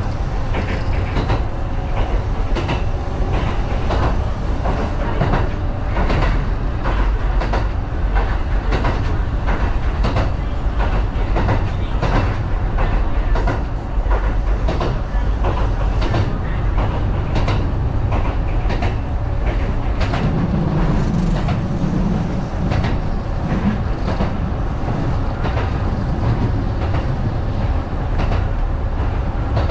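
Kintetsu 1010 series electric train running, heard from on board, with a steady low rumble and wheels clicking over rail joints at uneven intervals. A low hum swells for a couple of seconds about two-thirds of the way through.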